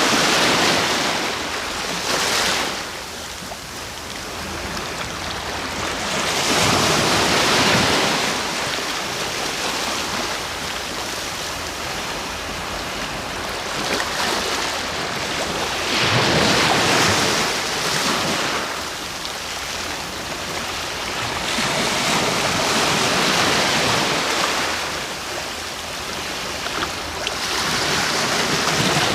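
Sea waves breaking on the shore, each one swelling to a loud surge and washing back, several in turn every few seconds.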